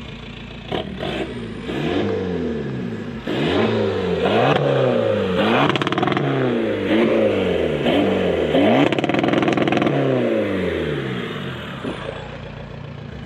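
Car engine idling, then revved repeatedly in quick blips about once a second, each rev rising and falling in pitch, before settling back to idle.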